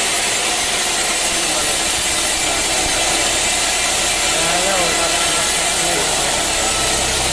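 Sawmill saw running steadily, cutting through timber with a constant, even noise.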